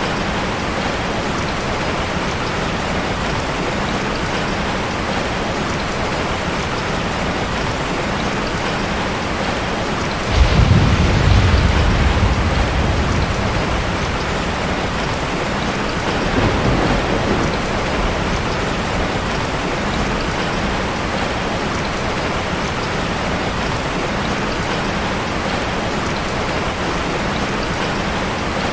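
Heavy rain falling steadily as an even hiss. About ten seconds in, a loud low rumble of thunder starts suddenly and fades over several seconds, with a weaker second rumble a few seconds later.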